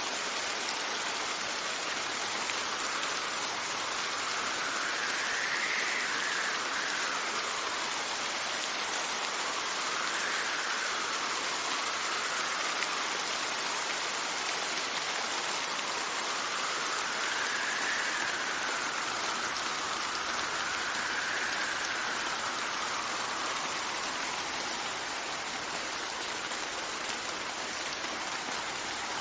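Steady rain with wind blowing in gusts, a faint whistle rising and falling about five times over the rain's even hiss.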